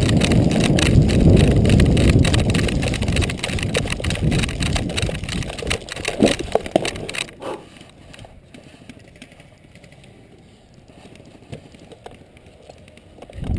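Airsoft guns firing full-auto in a sustained burst of suppressing fire: a rapid stream of clicks over a heavy low rumble, cutting off sharply about seven seconds in. After that only faint scattered clicks remain.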